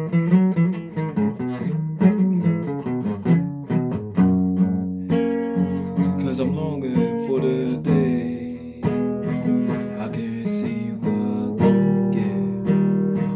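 Guitar playing an instrumental passage, a run of strummed and plucked chords with no vocal.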